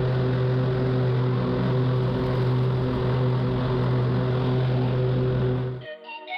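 Zero-turn lawn mower engine running at a steady, even speed under mowing load. It cuts off abruptly near the end and electronic music takes over.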